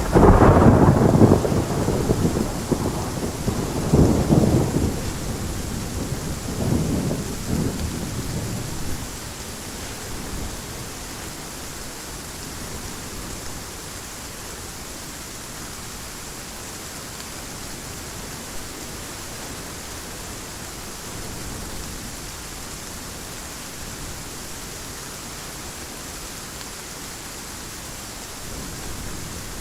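A long peal of thunder crashes at the start and rolls on in two more swells, fading out after about nine seconds, over steady heavy rain.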